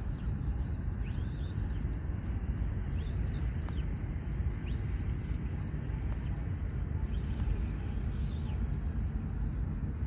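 Small birds chirping with short, quick calls scattered all through, over a steady low rumble and a constant thin high-pitched tone.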